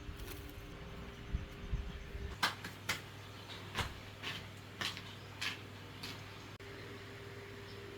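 A run of about eight light knocks and clicks, handled objects striking one another, over a steady low hum.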